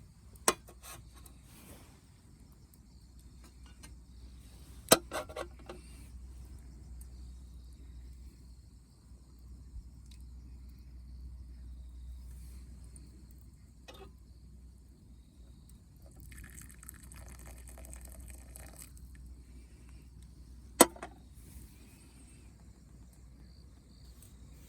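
Wood fire in a fire pit crackling, with three sharp pops, near the start, about five seconds in and near the end, and a few faint ticks, over a low steady rumble.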